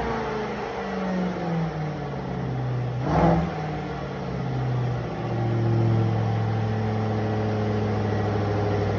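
Jaguar F-Pace SVR's supercharged 5.0-litre V8, with an aftermarket Mina Gallery intake and the stock exhaust, dropping back toward idle after being revved, with one short blip of the throttle about three seconds in. It then settles into a steady idle.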